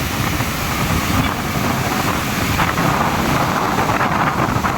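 Ocean surf rushing on the beach, with wind buffeting the microphone; the surf swells louder for a while after about three seconds.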